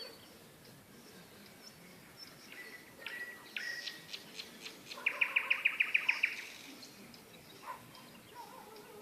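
Nightingale singing: a few scattered whistles and clicking notes, then about halfway through a loud, rapid run of about a dozen repeated notes lasting just over a second.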